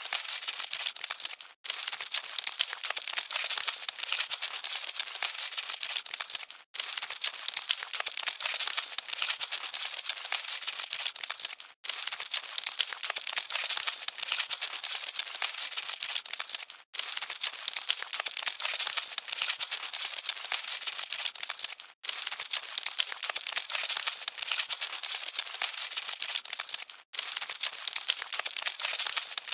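Dense crackling, rustling scuttle of cockroaches, a short recording looped with a brief dropout about every five seconds.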